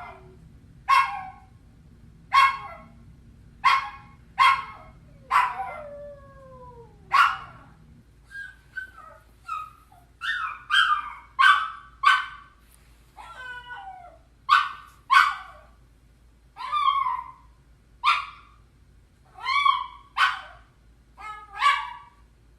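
Dog crying: short, high yelping barks about once a second, with whines that slide down in pitch. About eight seconds in another recording begins, with more yelps and wavering whimpers, and one longer, howl-like cry.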